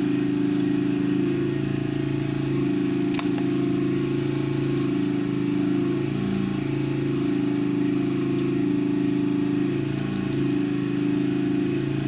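Steady low mechanical drone of a running engine or motor, with a sharp click about three seconds in.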